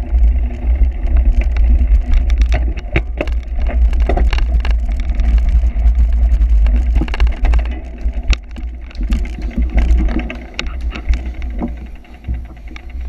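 Cyclocross bike riding over rough ground: heavy wind rumble on the microphone with many rattling clicks and knocks from the bike, easing off near the end.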